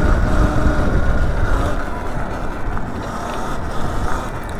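Riding a Sur Ron Light Bee X electric dirtbike: wind rumbling on the microphone over tyre and road noise, with a faint whine from the electric motor. It gets a little quieter about halfway through.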